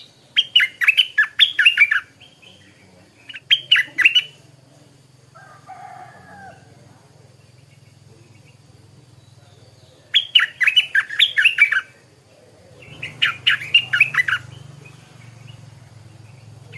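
Stripe-throated bulbul singing in four short bursts of quick, chattery notes, over a faint steady low hum.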